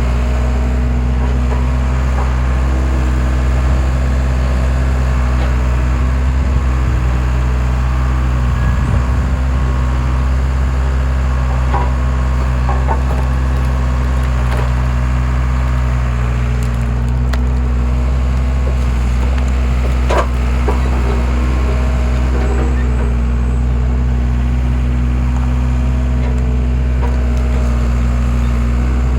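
Skid steer engine running steadily while its homemade log splitter works, with wood cracking and splintering now and then as logs split. The sharpest crack comes about twenty seconds in.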